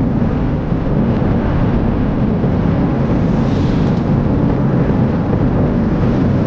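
Fireworks display: many bursts merging into one steady, dense low rumble.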